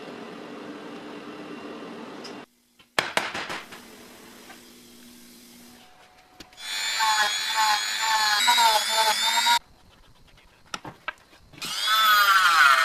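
Workshop power tools in short separate bursts. A motor hums steadily, then comes a sharp knock, then two loud stretches of a power tool whining, its pitch sagging and recovering under load.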